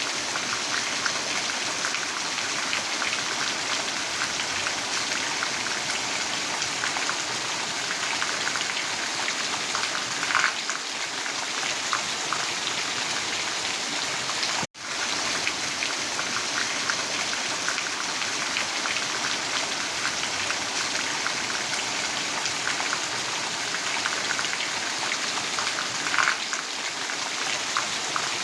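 Steady rain falling, with the small ticks of individual drops hitting a surface. The sound cuts out for an instant about halfway through and resumes unchanged.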